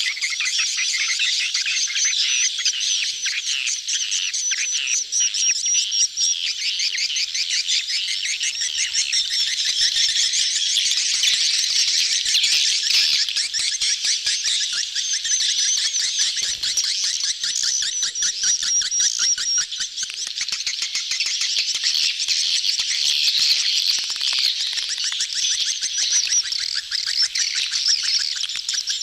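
A crowd of swiftlets twittering in a dense, unbroken chorus of rapid high chirps: the mating/courtship colony chatter used as a swiftlet lure-call recording.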